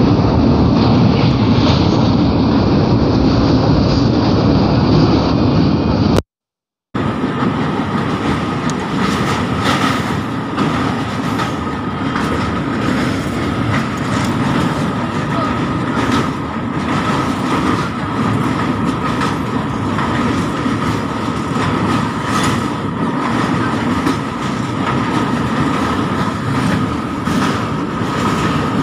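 Passenger train running over a river bridge, heard from inside the coach by an open window: a steady rumble with the clickety-clack of wheels over rail joints and a faint steady ringing tone. The sound cuts out for under a second about six seconds in.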